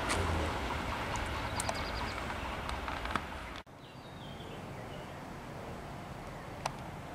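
A freight train of open wagons rolling along the track, a steady rumble with scattered wheel clicks slowly fading as it moves off. About three and a half seconds in the sound cuts abruptly to a quieter steady hiss with a short high chirp and one sharp click near the end.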